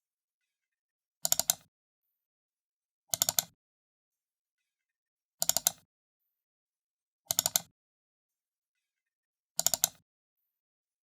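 Computer mouse button double-clicked five times, about every two seconds: each double-click a quick cluster of sharp plastic clicks, button press and release, with silence between.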